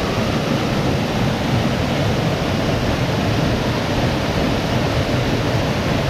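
Loud, steady rush of water cascading down a rocky glen stream and its falls.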